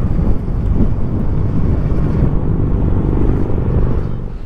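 Steady low wind rumble on the microphone from riding an electric bike at road speed.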